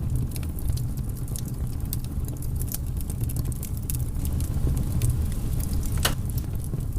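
Wood bonfire crackling, with frequent sharp pops and one louder snap about six seconds in, over a steady low rumble.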